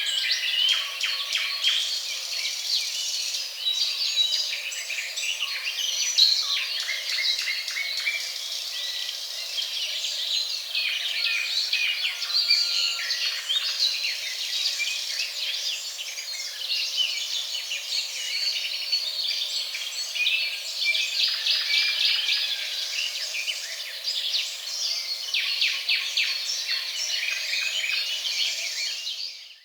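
Stock sound effect of a dense chorus of many songbirds chirping and trilling over one another. It cuts off suddenly at the end.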